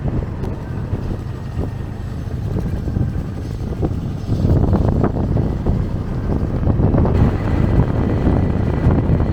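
Heavy wind buffeting the microphone while riding a scooter into a strong headwind, a loud, gusting low rumble.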